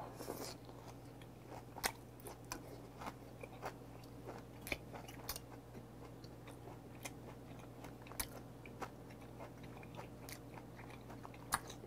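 A man chewing a mouthful of raw beef: irregular sharp clicks and smacks of the mouth, the loudest about two seconds in and again near the end.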